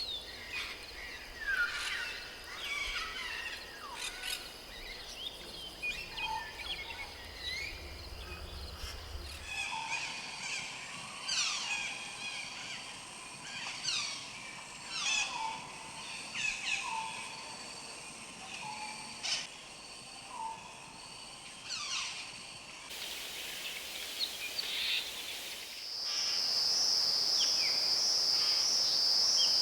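Birds chirping and calling outdoors, many short falling chirps, with abrupt changes in the background between clips. A few seconds before the end, a loud, steady high insect trill, like crickets, takes over.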